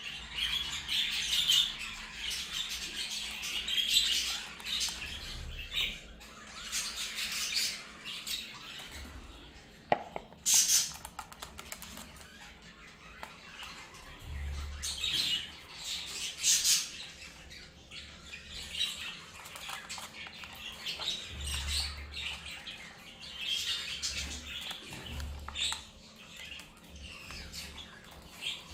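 Budgerigars chirping and chattering continuously, with a few louder, sharp calls.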